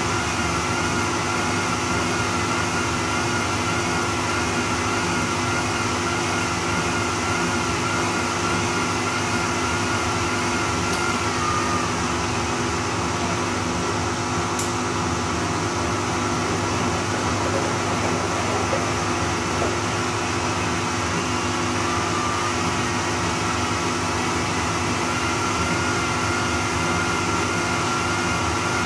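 Bosch Serie 2 Vario Perfect washing machine running on its Silk program, its motor humming steadily at a constant speed with a few fixed tones.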